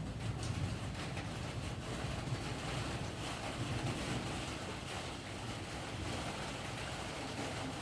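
Strong storm wind blowing hard against the microphone: a steady low rumbling rush without let-up.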